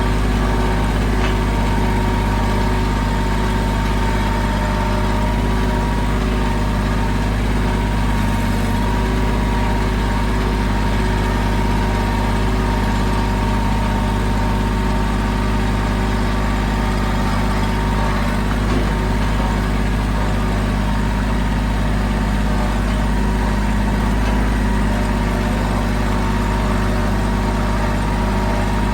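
Mahindra tractor's diesel engine running steadily at an even speed, with no revving or changes.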